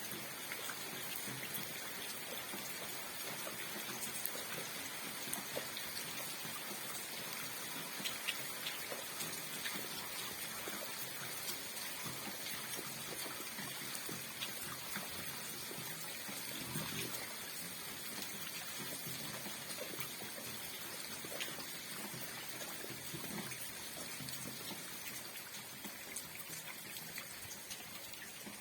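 Steady rain falling, an even patter with scattered sharper drops ticking throughout.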